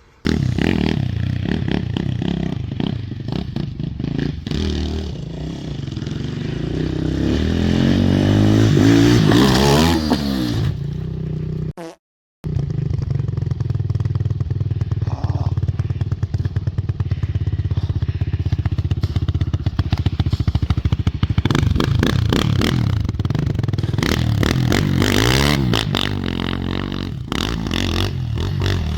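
Pit bike engine running and being revved as the bike is ridden, its pitch climbing and falling with the throttle several times. The sound breaks off for about half a second around twelve seconds in, then the engine carries on.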